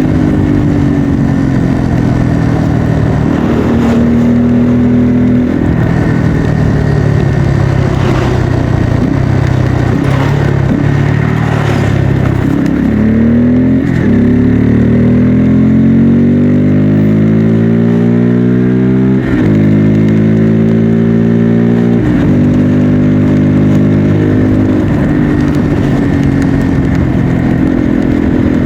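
Bajaj Pulsar N250's single-cylinder engine and exhaust running under way, its pitch rising under throttle and dropping at gear changes. About halfway through it accelerates in one long rising pull that ends in a sudden drop at an upshift.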